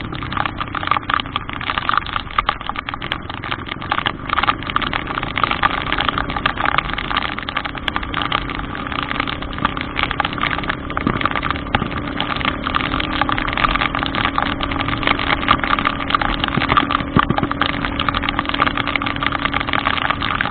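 A vehicle engine running steadily at low revs, under a constant dense hiss and patter.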